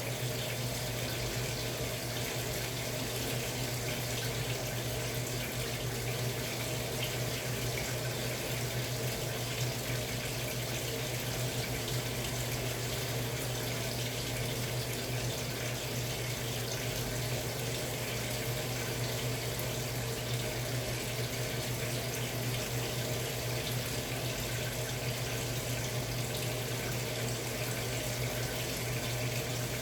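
Samsung Wobble 14 kg top-loading washing machine running, a steady rush of water over a low, even hum.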